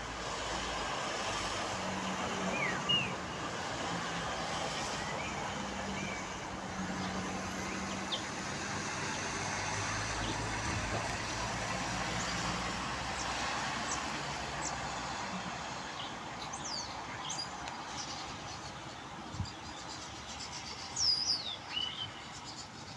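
Steady hiss of rain and road traffic with a low engine hum, and small birds chirping now and then, several times in quick succession near the end.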